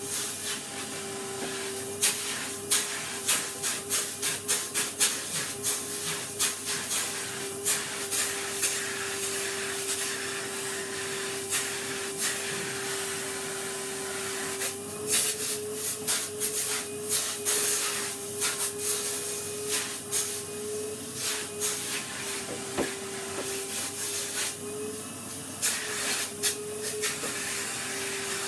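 Vacuum cleaner running with a steady whine and hiss, its pitch stepping up slightly about halfway, over frequent short knocks and scrapes against the table.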